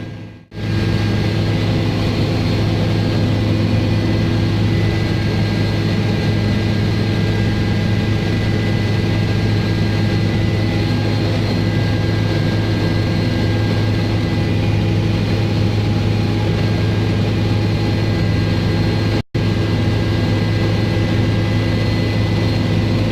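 Helicopter turbine engine and rotor in flight, heard from inside the cabin: a loud steady low drone with a thin high whine over it. The sound cuts out briefly twice, about half a second in and near the end.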